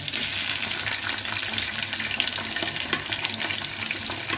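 Raw chicken pieces going into hot oil and fried onions in an aluminium pot, setting off loud sizzling and crackling. The sizzle jumps louder at the start as the pieces hit the oil, then stays busy.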